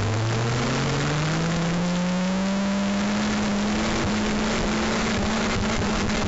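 Stock car engine accelerating, its pitch rising for the first two to three seconds and then holding at steady revs, under a heavy rush of wind and track noise.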